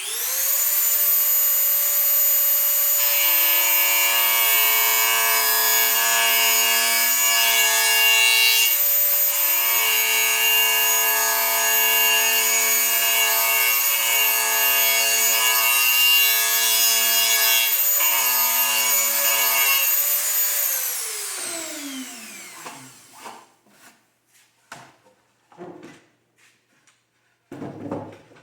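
Dremel rotary tool with a sanding band running at a steady high whine, sanding wood off a wooden beehive box to make room for tight frames; its tone deepens and wavers while the band is pressed against the wood, easing briefly twice. About 21 seconds in it is switched off and winds down with a falling pitch, followed by a few light knocks.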